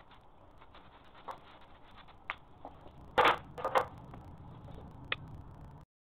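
Light scraping and clicking of hand work. Two louder knocks come a little over three seconds in and a sharp click near the end, then the sound cuts off abruptly.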